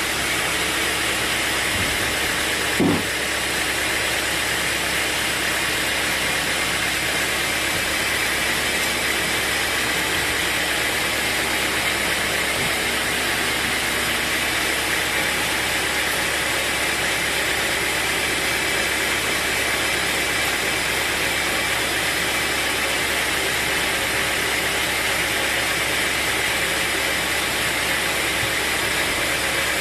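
Sawmill machinery running with a steady, unchanging noise. A single short knock comes about three seconds in.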